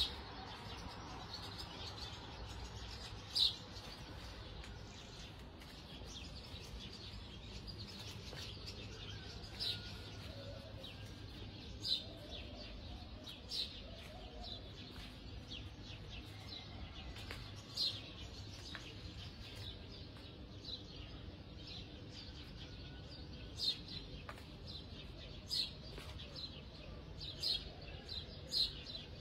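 A small bird chirping: short, sharp high chirps at irregular intervals, one every second or few seconds, over a steady low hum.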